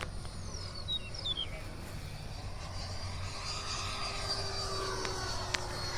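Freewing Stinger 90 RC jet's 90 mm electric ducted fan whining as the model flies overhead, growing slightly louder in the second half. There is low wind rumble on the microphone, and two short falling whistles about a second in.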